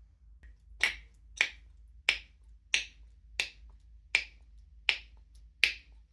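A parrot making a run of about eight sharp mouth clicks, evenly spaced about two-thirds of a second apart.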